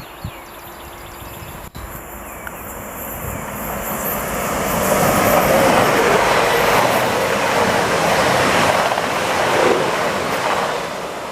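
A train passing through the station: its rushing, rumbling noise builds over a few seconds, stays loud through the middle, then fades away near the end.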